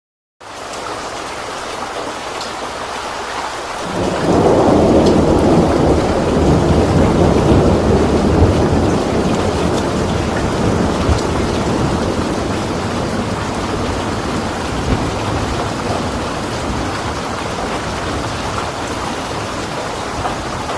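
Heavy storm rain pouring steadily, starting abruptly. A long low rumble of thunder swells in about four seconds in and slowly dies away under the rain.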